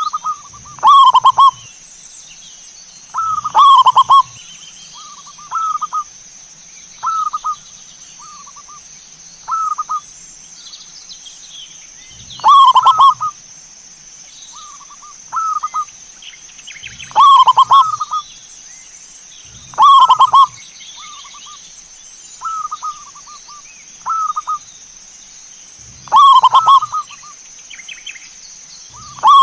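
Zebra doves (perkutut) cooing: short rolling coo phrases repeat every one to three seconds. Louder and softer phrases alternate.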